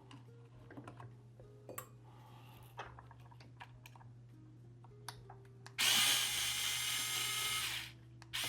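Small electric screwdriver running for about two seconds to back out a screw from the remote's plastic shell, then a short second burst near the end. Light clicks of handling the screwdriver and the controller come before it.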